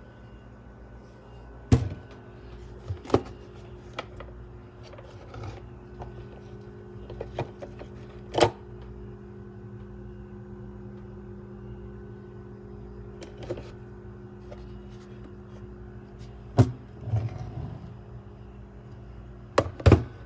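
A steady low electrical hum, with a handful of sharp knocks and clicks scattered through it.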